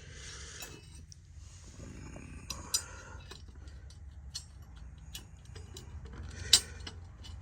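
Light clicks and metallic clinks of small bicycle parts being handled as a small cap is tried in a bicycle fork, not going in at the right size. The sharpest click comes about six and a half seconds in.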